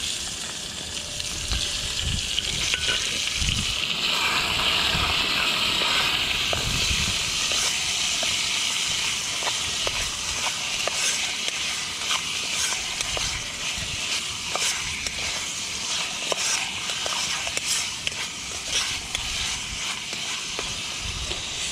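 Food sizzling and spitting in hot oil in a pan: a steady hiss with many small crackles.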